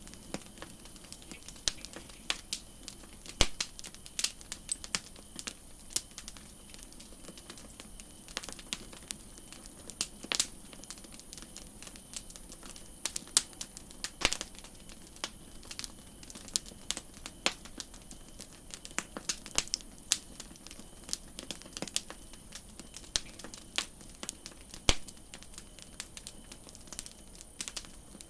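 Wood campfire crackling: irregular sharp pops and snaps, some much louder than others, over a steady faint hiss.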